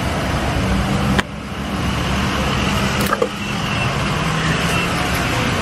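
Car engine running steadily with road noise around it. The level drops suddenly just over a second in, and there is a sharp click about three seconds in.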